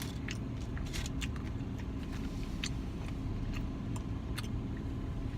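Steady low hum with a faint steady tone inside a car, with irregular sharp clicks: an unidentified noise that the occupant remarks on.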